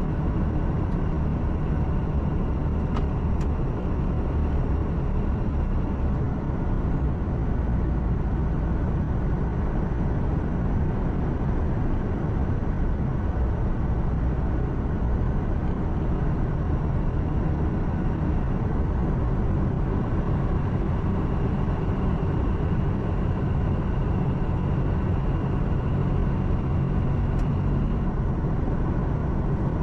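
Truck engine hum and road noise heard from inside the cab while driving, a steady drone heaviest in the low end, with two faint ticks, one early and one near the end.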